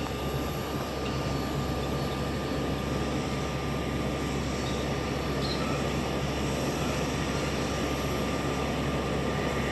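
Jet airliner engines heard at a distance: a steady rush of noise with a low hum that swells slightly near the end.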